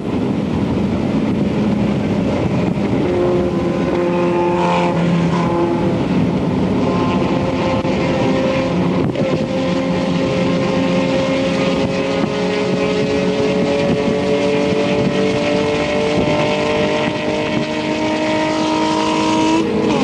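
Isuzu Stylus race car's four-cylinder engine running hard under load with a steady rushing noise beneath. Its pitch breaks about nine seconds in, climbs slowly for about ten seconds, then drops sharply just before the end, as at an upshift.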